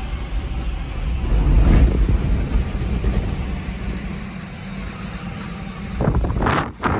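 Storm-force wind gusting and buffeting the microphone as a heavy low rumble, swelling to its strongest gust about two seconds in and easing after. A few sharp knocks near the end.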